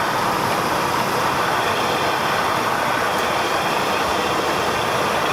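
Steady drone of a Cessna 172 in flight, engine and propeller noise heard in the cabin, even and unchanging.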